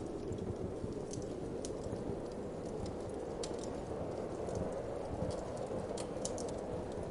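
Wood fire crackling, with scattered sharp pops and snaps, over a steady low rush of winter wind.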